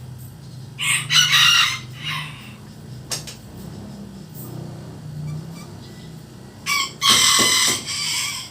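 A rooster crowing twice, about a second in and again near the end, over a steady low hum.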